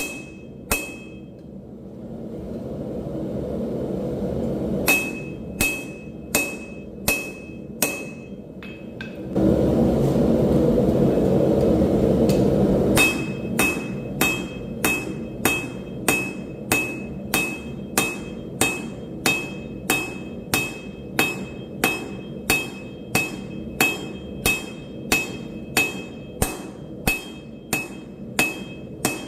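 Forging hammer striking hot steel on an anvil in a steady rhythm of about a strike and a half per second, each blow ringing with a clear metallic tone. Between runs of strikes a steady rushing noise builds, and it is loudest for a few seconds just before the long run of blows.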